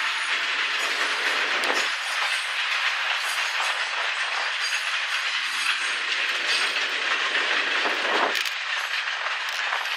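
Canadian Pacific Holiday Train's cars rolling past on the rails in a steady rush of wheel noise, with scattered clicks from the wheels and rail joints.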